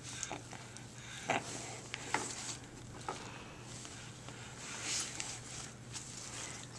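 A few light, scattered taps and clicks of a spoon being handled, over quiet room hum.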